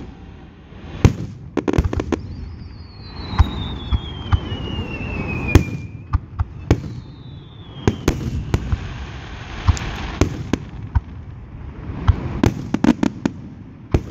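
Fireworks display: aerial shells going off in sharp bangs, with low rumble between them. A long whistle falls in pitch a few seconds in, and a shorter one follows. A quick run of bangs comes near the end.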